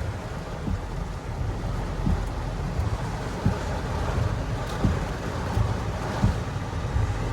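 Heavy rain and wind of a severe thunderstorm beating on a car, heard from inside the cabin, as a steady rushing noise over a low rumble.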